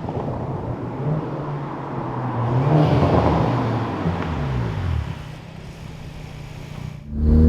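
Hyundai i30 N's turbocharged four-cylinder engine through a full turbo-back performance exhaust. It revs up a couple of seconds in and drops back, runs more quietly, then turns abruptly louder near the end.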